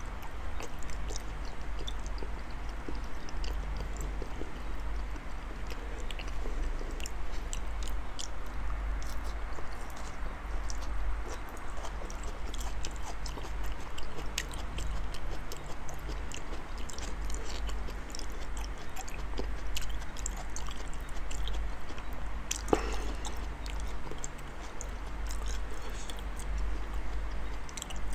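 Close-up mouth sounds of someone chewing soft raw salmon: many small, irregular wet clicks and smacks, over a steady low hum.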